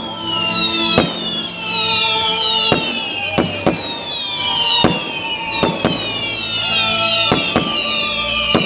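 Fireworks display: a rapid string of whistling fireworks, each a falling whistle about a second long, overlapping one another, with sharp bangs of bursting shells about once a second.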